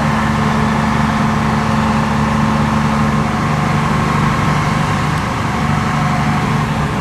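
A fire truck's heavy engine idling with a steady low hum.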